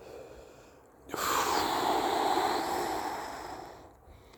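A person's long, heavy breath out, starting suddenly about a second in and fading away over about three seconds.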